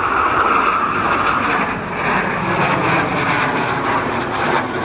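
Northrop F-5E Tiger II jet fighters flying a display pass: steady, loud jet engine noise that eases a little about two seconds in.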